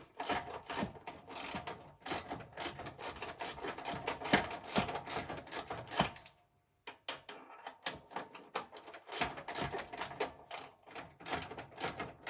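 Ratchet wrench clicking rapidly as bolts are turned in, with a brief stop a little past halfway.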